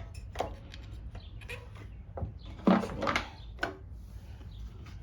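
Small engine parts being handled and fitted together: scattered light clicks and knocks, the loudest about two and a half seconds in.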